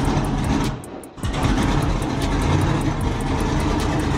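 Twin-turbo Oldsmobile Cutlass running on E85, its engine idling with a steady low rumble and an even, fast pulse; the sound drops away briefly about a second in, then comes back.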